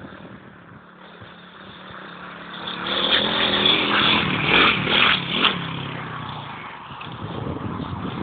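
110cc pit bike's single-cylinder four-stroke engine revving up and down, growing louder about two and a half seconds in, then fading away over the last few seconds.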